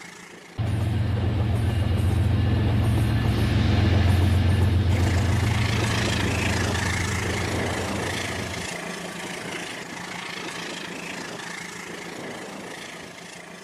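Toy train running: a steady low electric hum that starts suddenly about half a second in and drops away about nine seconds in, over a continuous rattling noise.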